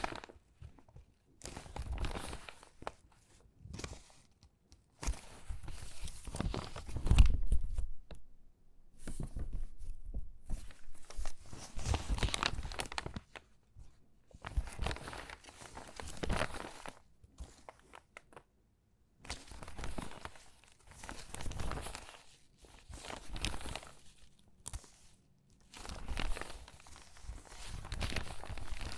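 Crinkly water-damaged magazine pages being handled and sorted by hand, rustling and crinkling in separate bursts every second or two, the loudest about seven seconds in.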